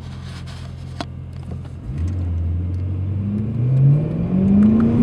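Supercharged BMW E92 M3's 4.0-litre V8 idling steadily at the start line, then revving up about two seconds in and climbing in pitch as the car accelerates away.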